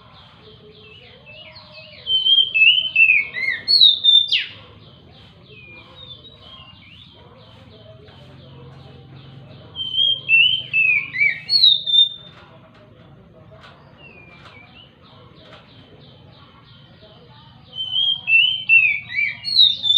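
Oriental magpie-robin singing: three loud bursts of whistled notes that slide down in pitch, each about two seconds long and roughly eight seconds apart, over a fainter, steady, fast trill of repeated high notes.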